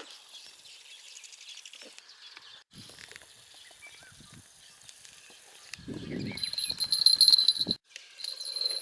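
Outdoor ambience with faint scattered calls. From about six seconds in, a steady high insect trill sets in alongside a louder low rumbling noise. The sound drops out briefly twice, at cuts.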